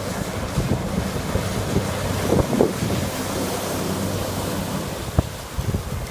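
Jet ski running on open water, its engine a steady low hum under heavy wind noise on the microphone, with water rushing and a few sharp knocks, the loudest around the middle and a little after five seconds in.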